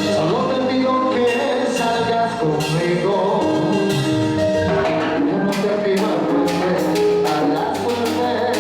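Live salsa orchestra playing a romantic salsa number (salsa romántica), with held pitched notes over the band and sharp percussion strikes that grow dense about halfway through.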